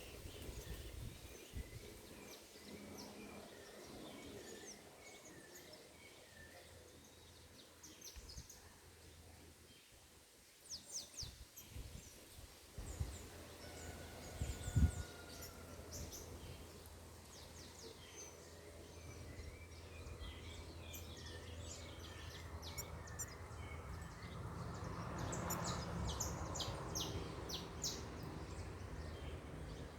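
Birds chirping: many short high calls, densest around the middle and again near the end, over a low steady rumble. A single low thump about fifteen seconds in.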